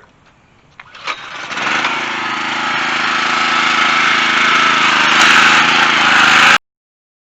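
Car engine cold-started through a pieced-together aftermarket exhaust, catching about a second in and running steadily, getting louder, before it cuts off suddenly.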